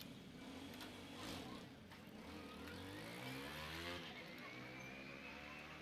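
A faint engine speeding up, its pitch rising over about two seconds, with a thin high whine climbing slowly after it.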